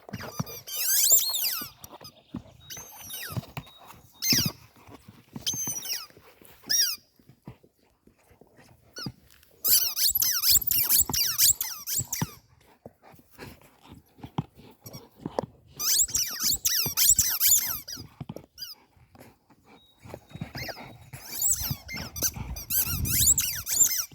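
Dogs chewing squeaky toys, making bouts of rapid, high-pitched squeaks with short pauses between them. The longest runs come around the middle and near the end.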